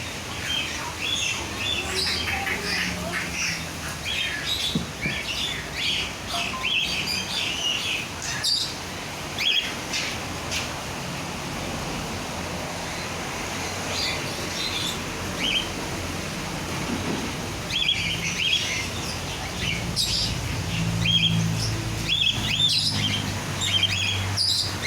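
Songbirds chirping and calling in quick, busy runs of short notes, thinning out for a few seconds in the middle. A low steady hum runs underneath and grows stronger near the end.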